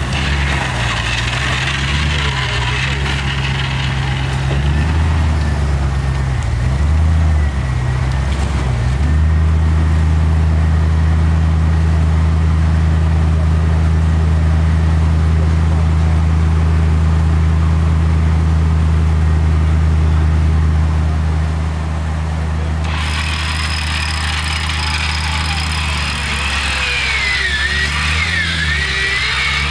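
Off-road 4x4's engine working in a rocky stream bed. The revs rise and fall for the first several seconds, are held steady and loud for about twelve seconds, then ease off to a lower note.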